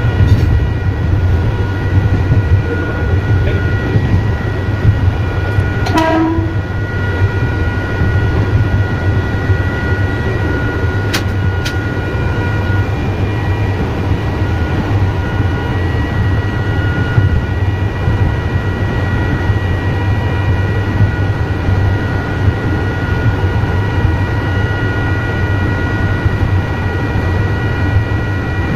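Electric train running, heard from the driver's cab: a steady low rumble with a constant high electric whine. A short sound falls in pitch about six seconds in, and two sharp clicks come around eleven seconds.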